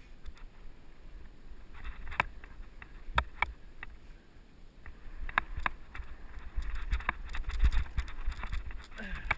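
Mountain bike rolling over a dirt trail, heard from a helmet camera: tyre noise and low wind rumble on the microphone, with irregular sharp clicks and rattles from the bike's chain and frame over bumps. The rumble grows louder past the middle.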